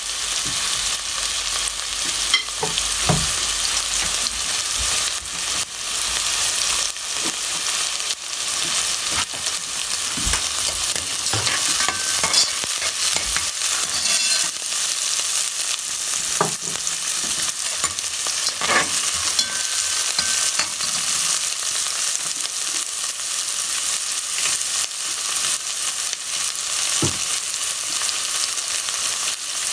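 Food frying in hot oil in a pan: a steady sizzle, with a spoon stirring and now and then knocking against the pan.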